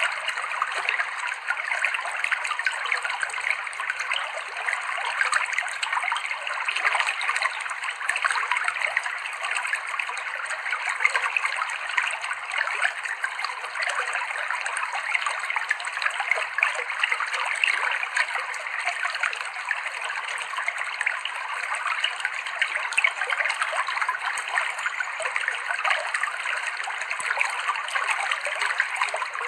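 Clear stream water flowing and babbling over rocks, a steady trickling and splashing with no pauses.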